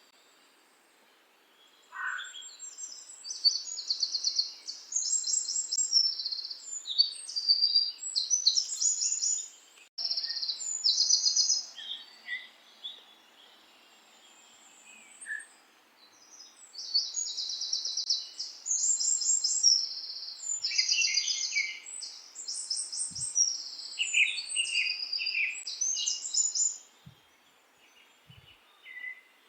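Songbirds singing high, rapid trilled and chirping phrases in two long bouts, with a lull of a few seconds in the middle.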